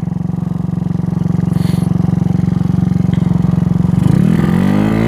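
GY6 scooter's single-cylinder four-stroke engine, bored out to 88cc, running steadily while riding. About four seconds in, the engine revs up in a quick rising sweep as the throttle opens.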